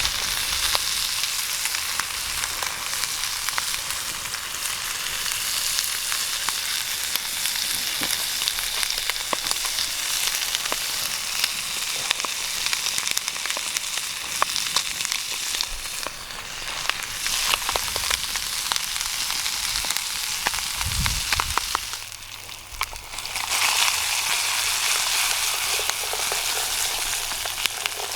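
Guanciale (cured pork cheek) frying in its own fat in a camp pan over a fire: a steady sizzle with small crackles, which dies down briefly about 22 seconds in and then picks up again.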